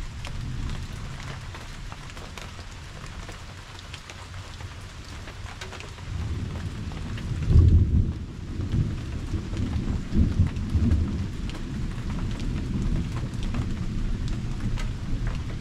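Steady rain with scattered drops ticking close by, and a low rumble of thunder that builds about six seconds in, is loudest a little later, then rolls on more softly.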